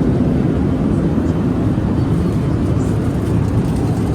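Steady low rumble of cabin noise inside a Boeing 787-8 airliner in flight: engine and airflow noise with no distinct events.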